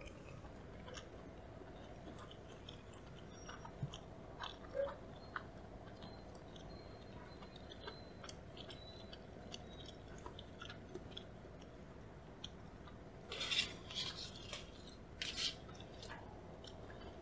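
Close-miked chewing of a mouthful of shrimp sushi with cream sauce: soft, scattered wet mouth clicks and smacks, with two louder bursts of noise near the end.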